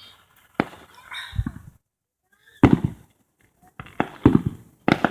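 Aerial fireworks bursting: about four sharp bangs with rumbling tails, the last two close together near the end.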